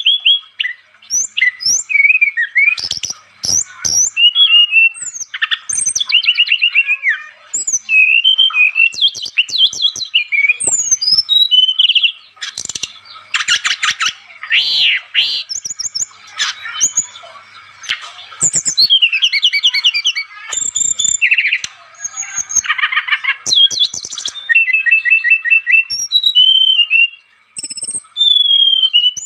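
Brown-chested jungle flycatcher (sikatan rimba dada coklat) singing vigorously: a long run of varied phrases made of quick trills, whistled up-and-down slurs and rapid repeated notes, broken by short pauses.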